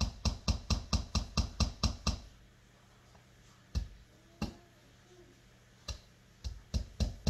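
Hammer tapping small nails into a wooden Langstroth hive frame: a quick run of strikes, about five a second, for the first two seconds, then a pause broken by a few single taps, and another quick run near the end.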